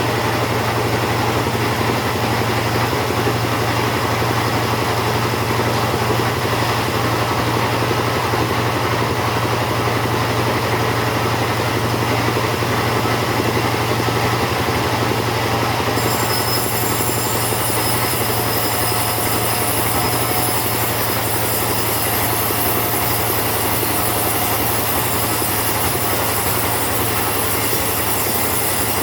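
Chainsaw running at steady high revs, ripping along teak wood. About halfway through, the sound turns brighter and hissier.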